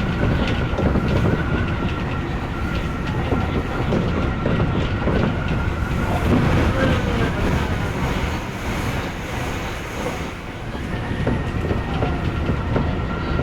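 Odakyu electric train running along the track: a steady rumble of wheels on rail with scattered clicks over rail joints. A steady high tone fades out about six seconds in and rises back in near the end.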